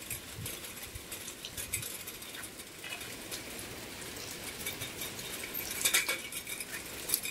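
Rain falling on a wet street: a soft hiss with many small, irregular drop ticks, a few louder ones about six seconds in and near the end.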